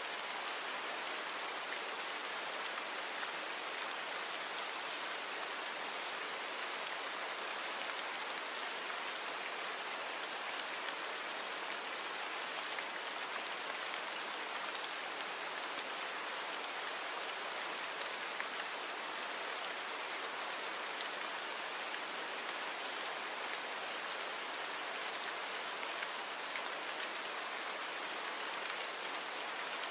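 Steady rainfall, an even hiss of rain falling on surfaces, unchanging throughout.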